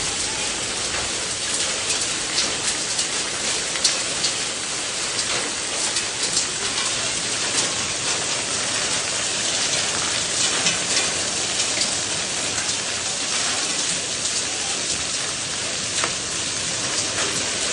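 Heavy rain pelting down on a tiled roof and concrete: a dense, steady hiss with many sharp ticks of drops striking hard surfaces.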